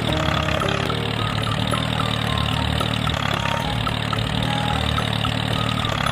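Small vehicle engine idling steadily at an even pitch.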